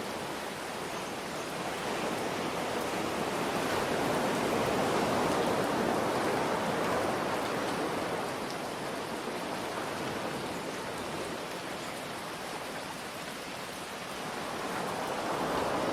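Steady rain mixed with ocean waves, the surf swelling slowly to a peak about five seconds in, easing off, and building again near the end.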